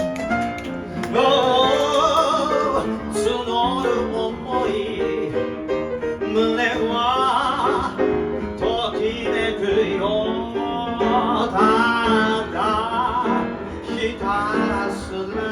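Voice and piano performing a show tune: a melody sung with vibrato in phrases over sustained piano chords.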